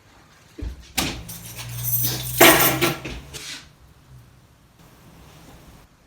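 A knock, then about three seconds of clattering and rustling as things are handled, loudest about two and a half seconds in.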